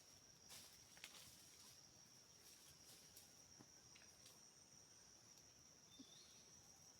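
Faint, steady high-pitched insect trill, with a few soft clicks scattered through it.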